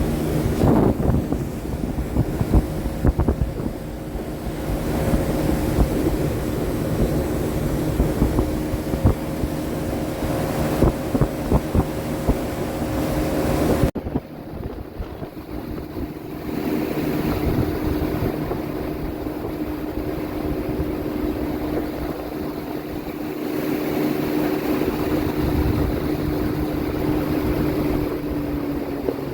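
Small boat's outboard motor running steadily under way, with wind buffeting the microphone. The sound breaks off abruptly about halfway through and the motor hum resumes.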